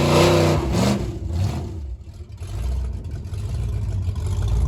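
Small car engine revving hard under load while towing a heavy truck, then easing back to a low rumble about two seconds in; it is labouring under the tow.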